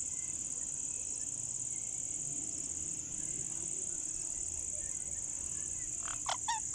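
Steady high-pitched insect chirring throughout, with a quick run of three or four short, sharp bird calls about six seconds in.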